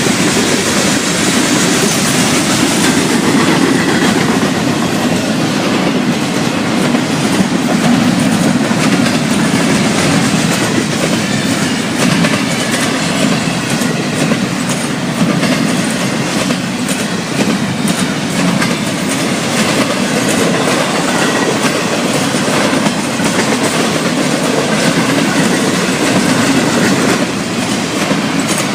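Florida East Coast Railway freight cars rolling past: a steady rumble of steel wheels on rail with a continuous clickety-clack of wheels over rail joints.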